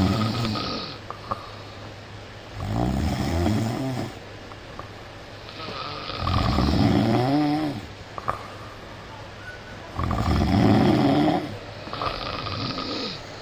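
A sleeping person snoring loudly, one long snore about every three to four seconds with quieter breathing between them. The snore near the middle rises in pitch.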